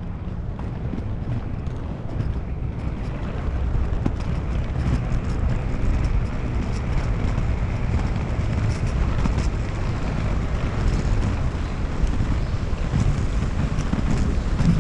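Steady low rumble of wind buffeting the microphone of a camera carried while inline skating.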